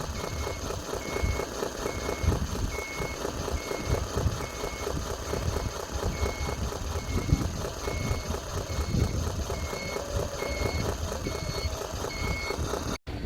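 RC scale dump truck backing up, its sound module giving a steady reversing beeper of about one beep a second over the rumble and clatter of the truck's running gear.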